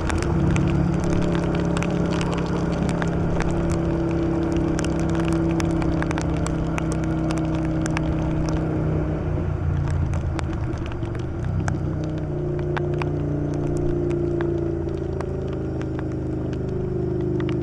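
Yamaha Virago XV750 V-twin engine running at a steady cruise. It eases off about nine seconds in and pulls again about three seconds later, over road and wind noise, with sharp ticks of rain striking the bike.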